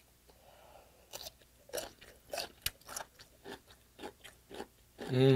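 Close-miked crunching and chewing of altari (young radish) kimchi, a crisp crunch roughly every half second. A short hummed vocal sound comes near the end.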